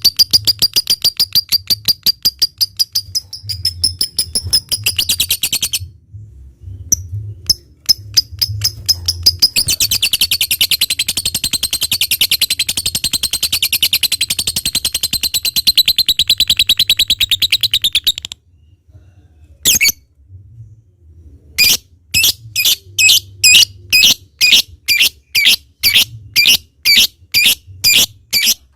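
Lovebird calling loudly: fast high-pitched chattering trills (ngekek), the longest run about eight seconds, then from about three-quarters of the way in, separate sharp chirps about twice a second (ngetik).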